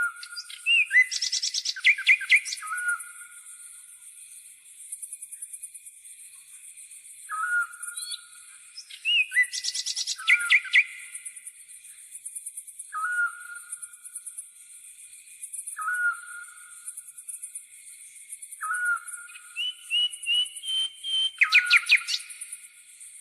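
A grasshopper's steady high, pulsing chirr runs throughout, while a bird gives a short whistled note about every three seconds. Three times a busier burst of bird song with quick trilled notes comes over it.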